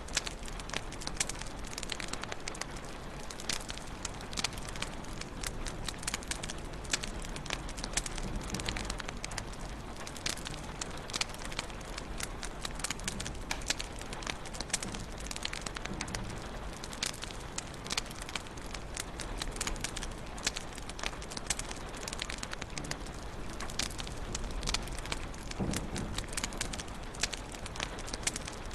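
Wood fire burning in a fireplace: a steady soft hiss with many sharp pops and crackles scattered throughout.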